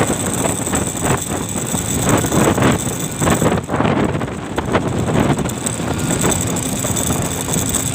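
A vehicle driving slowly, engine and road noise running continuously, with rushing, gusting wind from the sandstorm.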